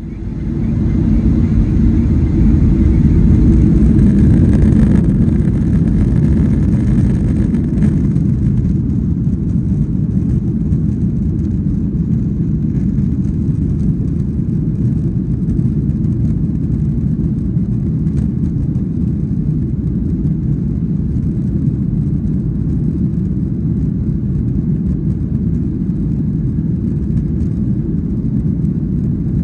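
Airliner cabin noise during takeoff: a loud, steady low rumble of the engines and airframe, with a higher whine over the first several seconds that then eases off.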